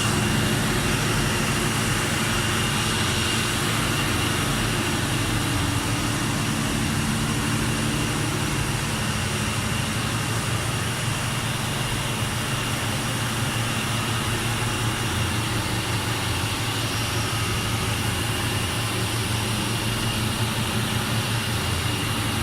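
Mitsubishi 600 kW diesel generator set running steadily, a low engine rumble with a thin steady whine above it.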